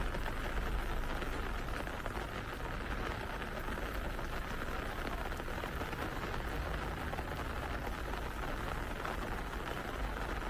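Steady rain falling on a city street: an even hiss with a low rumble underneath.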